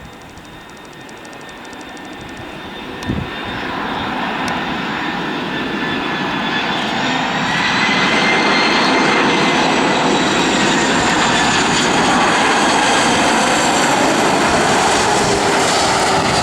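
Jet airliner's engines growing louder as the aircraft approaches over about eight seconds, then a loud steady roar with a high whine that rises and then drifts slightly lower in pitch as it passes.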